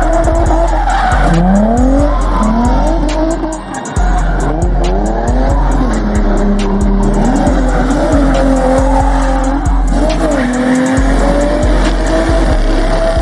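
A car engine revving up and down with tires squealing, as in a burnout, over music with a heavy bass line that drops out briefly twice.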